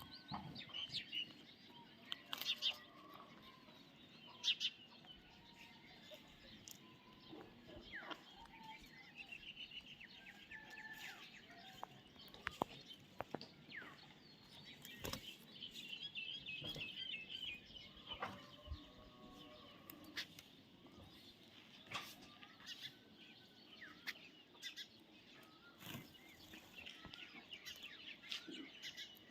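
Parrots chirping and twittering in short calls, with a denser run of twittering about halfway through and scattered sharp clicks and taps among the calls.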